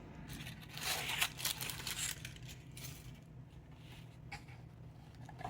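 Packaging rustling and crinkling as it is handled and opened, loudest in the first two seconds, then fainter with a few light clicks.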